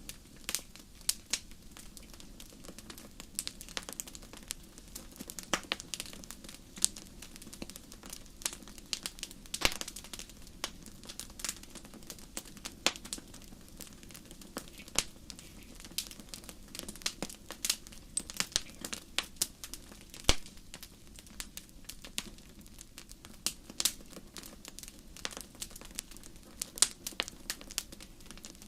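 Wood fire crackling in a fireplace: irregular sharp pops and snaps, several a second, over a low steady rush of the flames.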